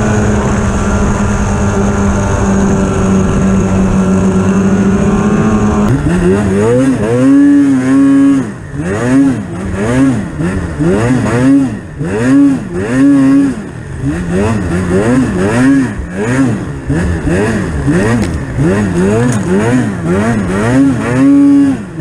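Polaris Pro RMK 800 snowmobile's two-stroke twin engine running at a steady pitch. About six seconds in it starts revving up and down over and over, roughly once a second.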